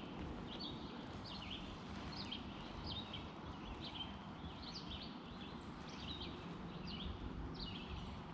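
A small songbird chirping over and over, about one and a half short chirps a second, over a steady low outdoor background noise.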